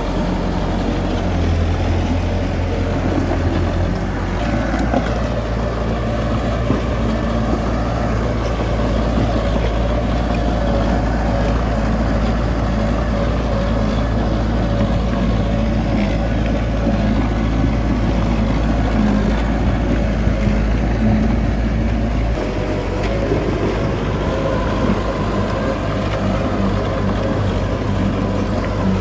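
Diesel engines of heavy earthmoving machinery running steadily. The engine note shifts about four seconds in and again about three quarters of the way through.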